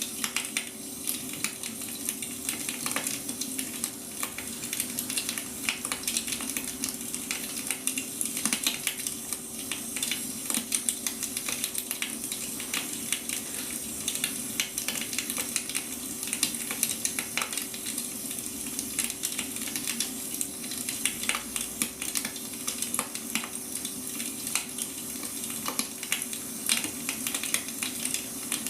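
Firewood burning, crackling with a dense, irregular run of small snaps and pops over a soft hiss, with a steady low hum underneath.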